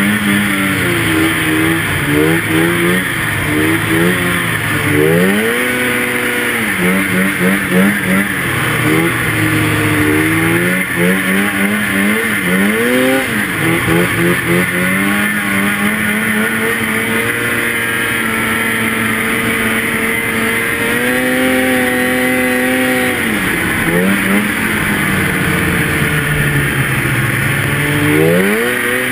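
Two-stroke snowmobile engine revving up and down as the throttle is worked on and off, with quick rises and falls in pitch through the first half. From about the middle it holds a steadier high speed, dropping and climbing again twice near the end.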